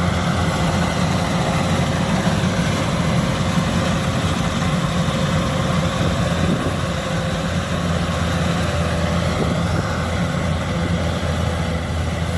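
Kubota DC-105X combine harvester running steadily: a low diesel engine hum under an even mechanical noise.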